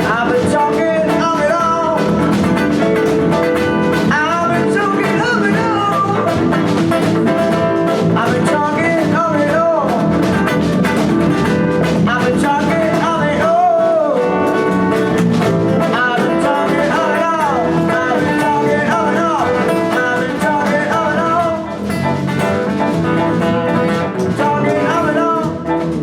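Live band playing blues-rock at full volume: a guitar lead with bent, wavering notes over bass and drums.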